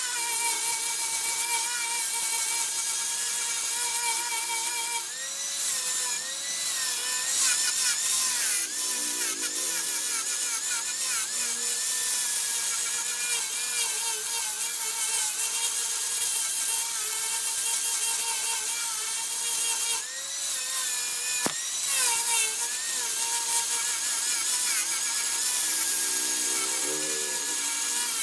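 Wood lathe spinning a workpiece while a turning tool cuts it, giving a steady high-pitched whine that wavers in pitch over a hiss of cutting.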